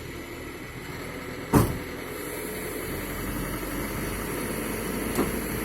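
Dump truck's diesel engine running steadily, with a single loud bang about a second and a half in and a lighter knock near the end.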